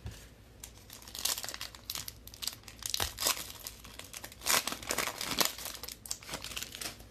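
Plastic trading-card pack wrapper crinkling and tearing as it is handled and opened, in a run of irregular crackles.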